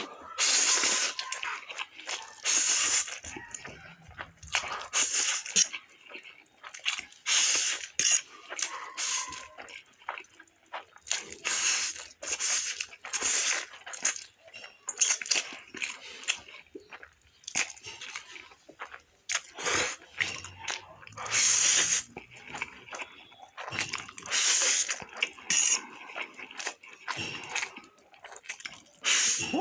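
Spicy instant noodles being eaten fast in an eating challenge: repeated slurps, one every second or so, with chewing between them.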